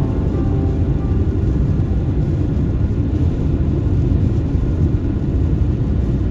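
A car driving on the road, a steady low rumble of tyre and engine noise.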